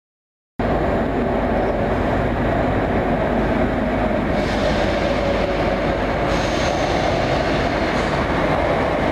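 ScotRail electric multiple unit approaching through the tunnel into an underground platform: a steady rumble of wheels on rail that starts abruptly about half a second in. A faint high wheel squeal joins in during the second half.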